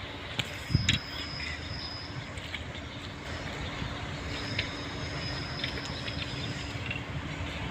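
Freight train rolling past on the rails, with a few sharp knocks about a second in and a thin high squeal coming and going.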